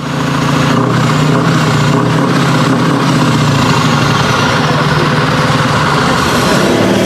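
Heavy truck diesel engine running steadily at idle.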